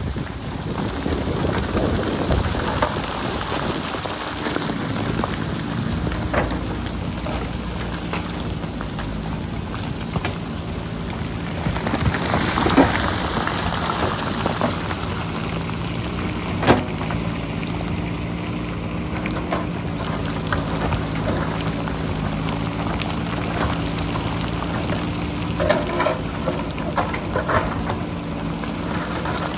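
JCB backhoe loader's diesel engine running steadily, with wind rushing over the microphone. A few sharp knocks of the bucket working rock stand out, one about halfway through and a cluster near the end.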